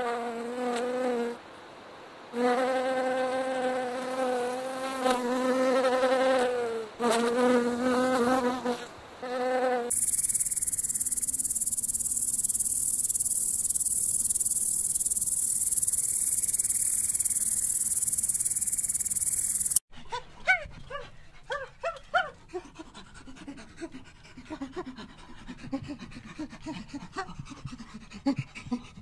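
Bumblebee buzzing in flight, a low steady drone broken by short pauses. About ten seconds in it changes to a loud, steady, high-pitched insect hiss. This stops suddenly about twenty seconds in and gives way to scattered short clicks and chirps.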